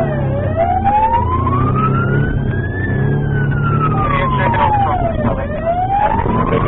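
Police car siren wailing in a slow rise and fall, one sweep up and down taking about five seconds, over steady engine and road noise.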